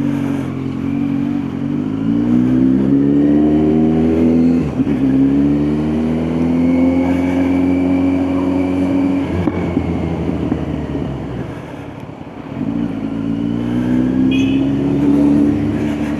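Kawasaki Z900 inline-four engine pulling through the gears: the revs climb, drop at a shift about five seconds in, and climb again. Around ten seconds in the engine winds down, briefly quieter, then picks up and rises again near the end.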